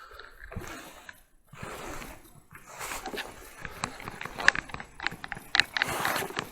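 Irregular sharp clicks and knocks of fishing tackle being handled in a boat, becoming busier about halfway through, over a steady wind noise.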